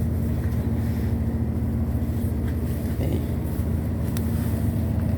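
Local passenger train running, heard from inside the carriage: a steady low drone of engine and running gear, with a few faint ticks.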